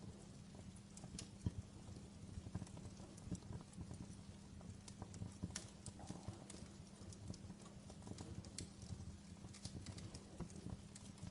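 Wood logs burning in a fireplace, crackling with frequent irregular sharp pops, one louder near the middle, over a low steady hum.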